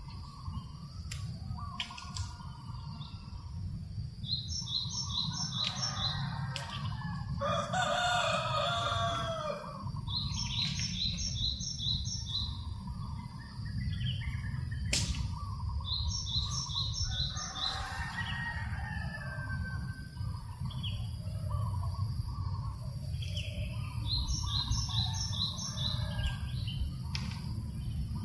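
Birds calling over a steady low wind rumble. A small bird repeats a quick, high four-note phrase every few seconds, and a longer, lower call comes about eight seconds in and again near eighteen seconds.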